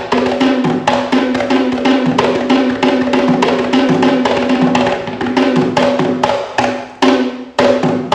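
Traditional Sri Lankan drums played in a fast, dense rhythm over a steady held note; near the end the strokes thin out into separate, ringing beats.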